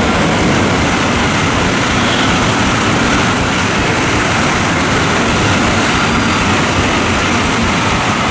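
Steady, loud rumbling and rushing noise of a moving train, with no breaks or changes.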